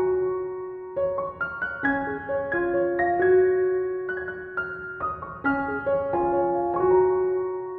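Background piano music: gentle notes and chords, each struck and left to ring.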